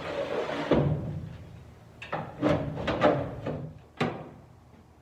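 Metal furnace parts being fitted back together by hand: a brief scrape as a part slides into place, then a series of metal clunks and knocks, and a sharp click about four seconds in.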